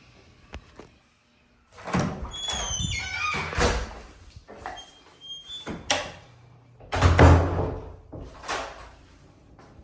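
A door being worked: a squeaky hinge whine falling in pitch, latch clicks and knocks, and a heavy thud about seven seconds in as it swings shut.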